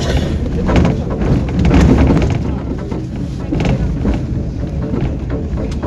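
Tram running, heard from inside the car: a steady low rumble with frequent irregular knocks and rattles.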